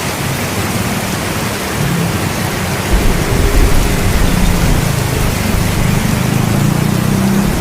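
Steady rain hissing, with a low rumble of thunder coming in about three seconds in and rolling on beneath it.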